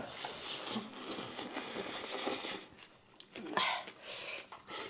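People eating by hand at a table: a full mouth chewing and smacking, with fingers rubbing through food on a plate, and a short breathy sound about three and a half seconds in.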